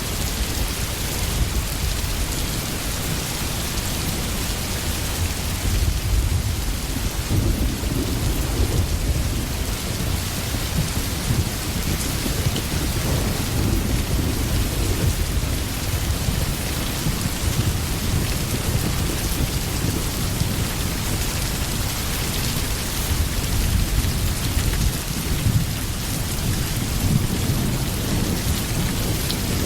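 Steady rain falling, with low rolling thunder rumbling underneath that swells from about six seconds in.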